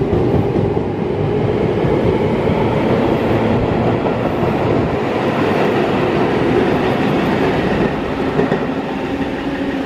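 Tobu 20000 series electric commuter train pulling out and picking up speed past the platform, a steady run of wheel-on-rail and running noise with a steady tone. The sound eases a little near the end as the last car clears the platform.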